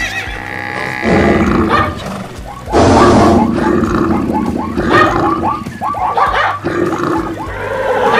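Many animal call sound effects layered over one another, as from a stampeding mixed herd. The loudest stretch comes about three seconds in, followed by a run of short falling calls.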